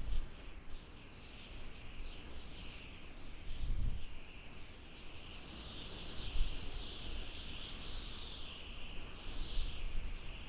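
Birds chirping in a steady, overlapping chorus, over a low rumble that swells briefly a few times.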